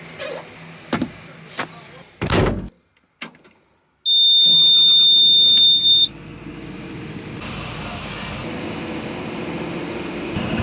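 A few clicks, then a loud thud like a vehicle door shutting. A loud steady high electronic beep follows for about two seconds, then a vehicle engine runs steadily, slowly getting louder.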